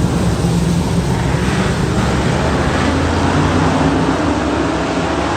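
Motor vehicle engine running steadily, a continuous low drone under a hiss of road or wind noise.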